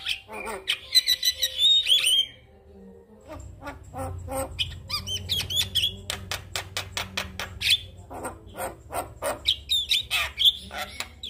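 Male Javan myna singing a fast, chattering song of clicks, squawky notes and short whistles, with a pause of about a second around two seconds in before it resumes.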